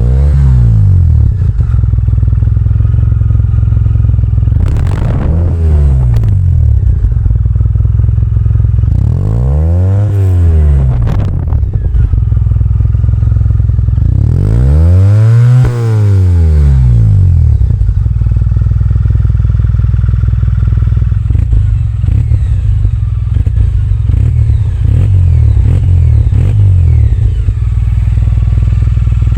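Suzuki Burgman 650's parallel-twin engine running through a Yoshimura R77 carbon full-system exhaust, idling steadily and revved up and back down several times. The biggest rev comes about halfway through, with smaller ones before it and near the end.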